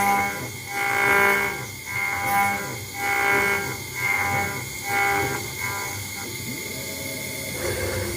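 CNC router spindle with a 1 mm ball-nose cutter engraving a brass plate, its whine swelling and fading about once a second as the tool passes back and forth over the relief. About six seconds in the pulsing stops and it settles to a steadier, quieter hum as the ball-nose program finishes.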